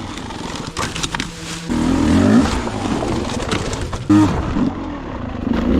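Dirt bike engine revving, rising in pitch in bursts about two and four seconds in, with a few knocks.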